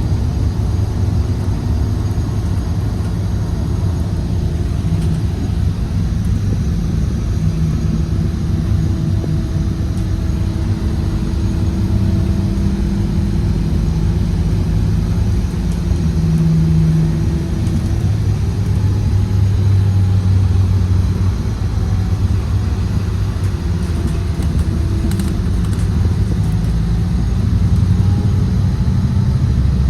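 Scania Citywide LE city bus running on its compressed-natural-gas engine, a continuous low rumble whose engine note rises and falls in pitch as the bus speeds up and eases off.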